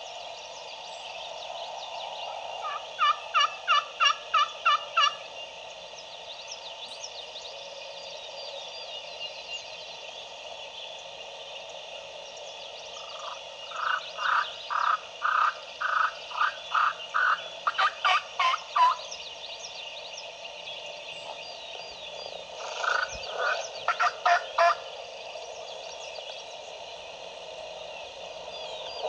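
Turkey yelping in three series of rapid, evenly spaced notes, about four a second: a short run, a longer run of about a dozen notes, then a short run near the end. The notes are loud and close, with faint songbird chirps and a steady background chorus behind them.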